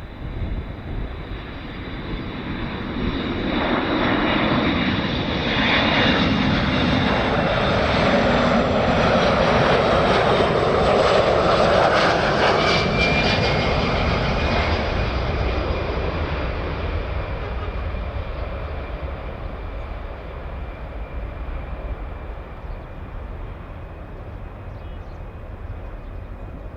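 Boeing TC-135W four-engined jet passing by. Its engine noise builds to a peak about ten to twelve seconds in, with a steady high whine over the rumble, then slowly fades away.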